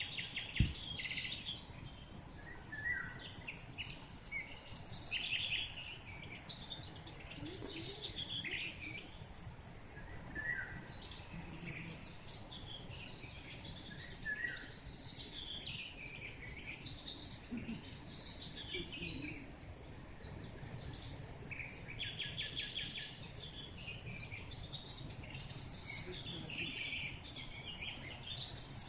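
Several birds singing and calling, with short chirps and trills overlapping all the way through and a rapid trill a little over three-quarters of the way in. One short low thump comes about half a second in.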